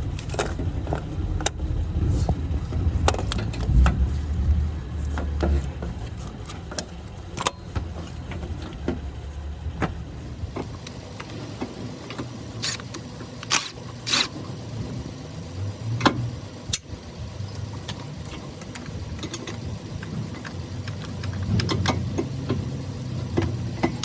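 Metal hand tools and parts clinking and clicking irregularly, with low rumbling handling noise.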